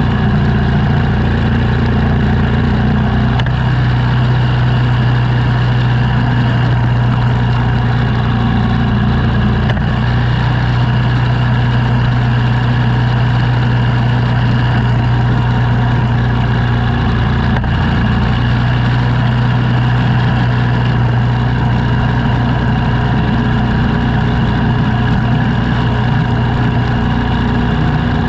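An engine running steadily at a constant speed, with a continuous low hum.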